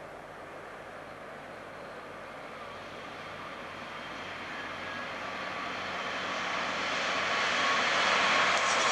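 Queensland Rail electric Tilt Train approaching at speed, a steady rush of wheel and air noise growing louder as it nears.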